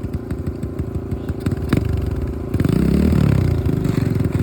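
Small single-cylinder four-stroke pit bike engine running at low revs, then getting louder about two and a half seconds in and revving up and back down. A single sharp click sounds a little before that.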